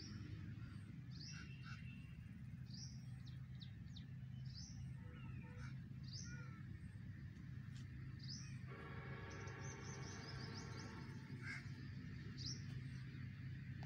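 Outdoor ambience: a small bird repeating a short high chirp every one to two seconds, with a longer call of about two seconds a little past the middle, over a steady low hum.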